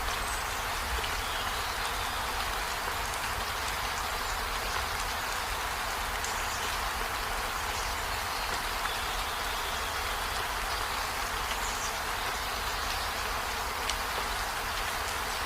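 Steady rain falling, an even hiss that does not let up, with a few faint, short high chirps over it.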